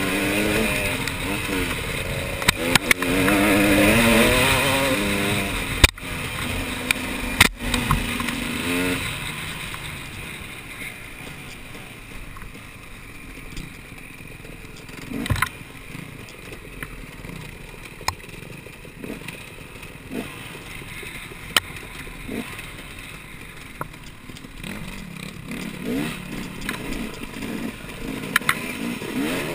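Motorcycle engine revving up and down for the first several seconds, then much quieter, with a few scattered knocks and clatter.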